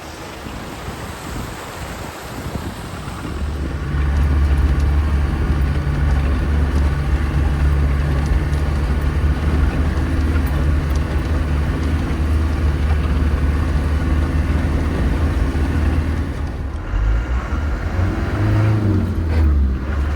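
Land Rover Defender 130 driving, its engine and drivetrain giving a steady low rumble. The rumble steps up clearly about four seconds in and turns uneven near the end.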